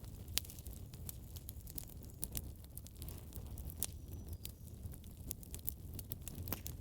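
Wood fire in a fireplace crackling, with frequent sharp, irregular pops and snaps over a low rumble of burning.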